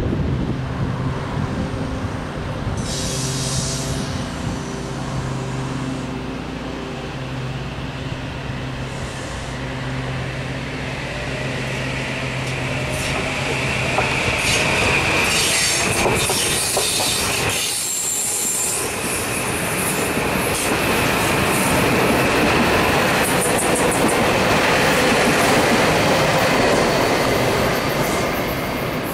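Metro-North electric multiple-unit commuter train running through the station. A steady electric hum is heard early on; about halfway through, wheels click over rail joints and a high wheel squeal sets in, growing louder as the train passes close.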